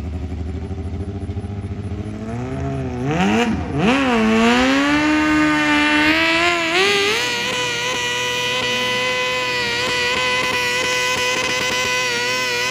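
Modified pulling tractor's engine revving: two quick blips about three seconds in, then a steady climb to high revs that holds to the end.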